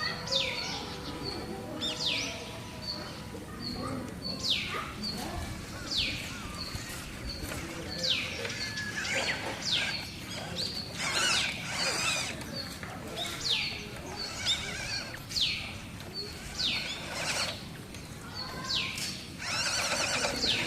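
Birds calling: repeated high calls that fall in pitch every second or two, over a steady series of short, high chirps about twice a second.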